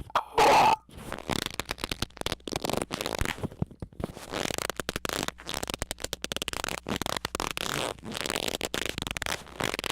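A brief loud squeak about half a second in, then rapid, irregular crackling and clicking noises.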